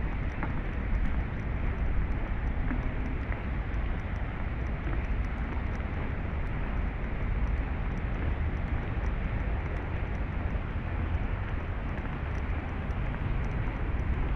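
Steady low outdoor rumble with a hiss above it and no distinct events.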